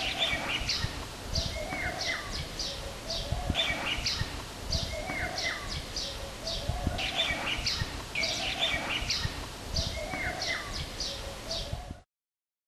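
Birds chirping and calling, several short high chirps a second with lower warbling notes between them, over a low rumble. It all cuts off suddenly near the end.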